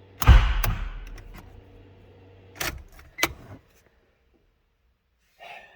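Nissan VQ35DE V6 with rod knock failing: a loud bang about a quarter second in, fading out over about a second, then two more sharp knocks a couple of seconds later, after which the steady running hum stops. The engine has seized with something broken inside.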